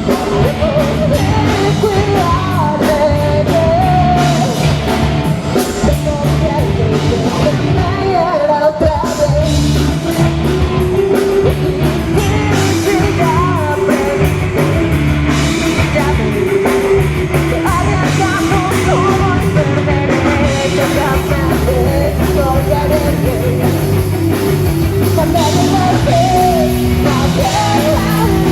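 Punk rock song with a sung vocal over distorted guitars, bass and a driving drum kit.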